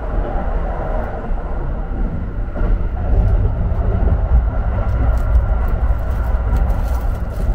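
Steady low rumble of the Kintetsu Hinotori express train running, heard from inside the carriage. From about five seconds in, crinkling plastic as a wrapped wet towel is pulled from the dispenser.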